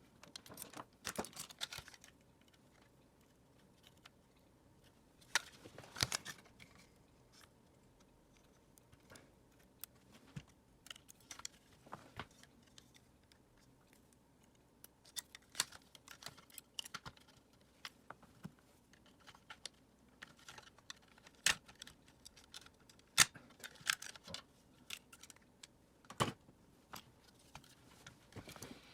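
Plastic parts of a Dyson vacuum cleaner being handled during disassembly: scattered light clicks and taps at irregular intervals, with a few sharper knocks.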